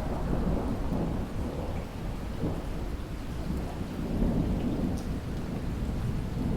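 Rain falling in a thunderstorm, with a long low rumble of thunder that swells in at the start and grows again about four seconds in.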